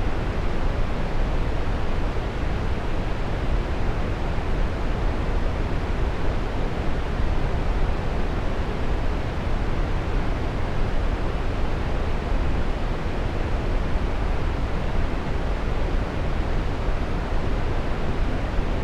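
Waterfall: water pouring and splashing in a steady, unbroken rush, heaviest in the low end.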